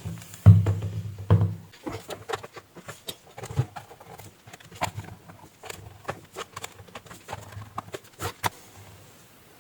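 Irregular small clicks and taps of objects being handled on a workbench, with a low hum that is loudest from about half a second to one and a half seconds in.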